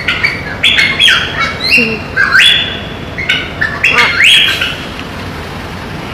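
A bird calling in a quick series of about eight loud, high-pitched calls, some sweeping up at the start, stopping about four and a half seconds in.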